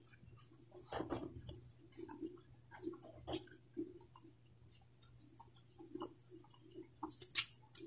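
A person chewing food with a full mouth close to the microphone: soft wet chewing sounds about twice a second, with two sharp clicks, one about three seconds in and one near the end.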